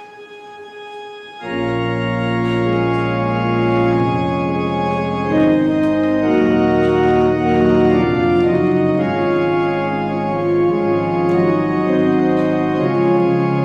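Church organ beginning to play about a second and a half in: full, held chords over a low pedal bass, the notes changing slowly.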